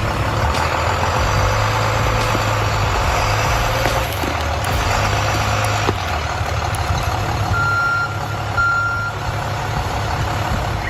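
Heavy vehicle engine running steadily, with two short high beeps about eight seconds in.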